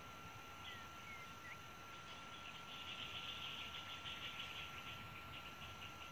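Faint rapid pulsing animal trill that swells in the middle, with a few short chirps near the start, over a steady thin high tone.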